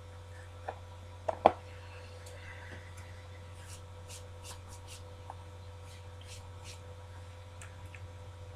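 Steady electrical mains hum, with a few small handling clicks about a second in and a run of faint soft rustling strokes in the middle.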